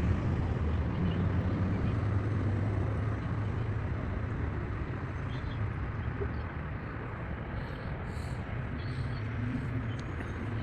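Nissan Versa four-cylinder engine running with a steady low hum, its level easing down slowly.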